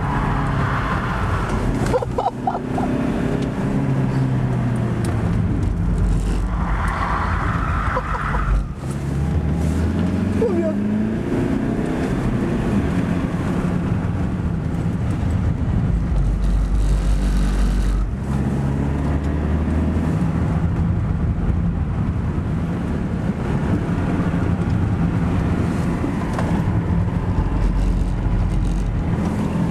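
Car engine heard from inside the cabin at track speed, its pitch climbing under hard acceleration and falling back at gear changes and braking, over steady tyre and road noise.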